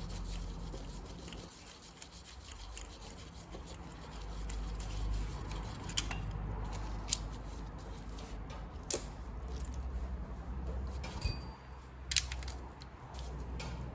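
Hand tools unbolting the timing-belt tensioner on a 1.6 HDi diesel engine: fine rapid clicking for the first several seconds, then several sharp metallic clinks.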